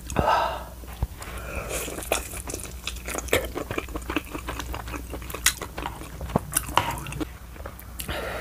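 A person chewing food close to a clip-on microphone, with many short wet mouth clicks and smacks throughout.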